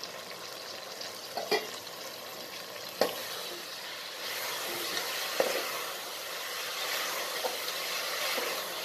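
Metal ladle stirring fresh mint and coriander leaves into onions frying in an aluminium pressure cooker: a steady sizzle that grows louder about four seconds in, with a few sharp clinks of the ladle against the pot.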